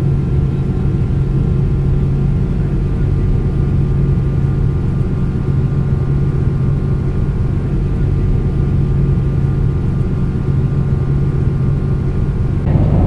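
Steady cabin drone of a Boeing 777-200ER in flight: engine and airflow noise heard from an economy seat, a low hum with a few fainter steady tones above it. Near the end a voice starts over it.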